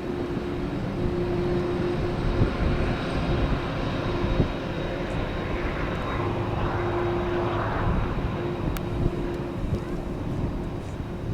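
Jet engines of a Boeing 767-300F freighter running as it taxis, a steady rumble with a low hum held through.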